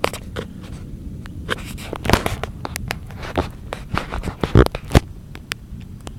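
Thunderstorm recorded on a phone: irregular sharp taps and crackles, loudest a little past the middle, over a steady low rumble.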